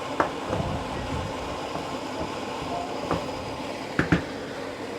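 Steady background hum with a few light clinks as a lid is set on the cooking pan. The loudest clinks come as a quick pair about four seconds in.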